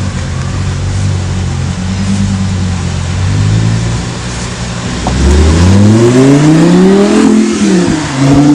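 Audi R8's V10 engine through a Milltek aftermarket exhaust, running steadily at low revs, then revved about five seconds in: the note climbs and gets louder for about two seconds, drops back, and starts climbing again near the end.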